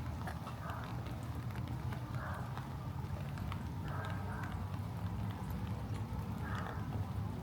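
Footsteps on wet pavement, a soft step every second or two, with scattered raindrops ticking and a steady low rumble of outdoor ambience.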